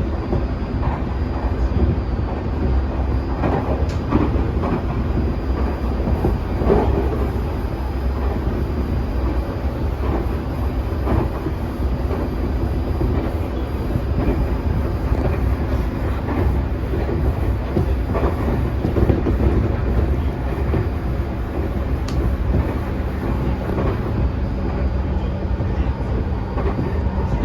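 Tokyu 2020 series electric train running at a steady speed: the low rumble of wheels on rail under a steady motor hum, with occasional faint clacks. This hum is what earns the train its "microwave" nickname.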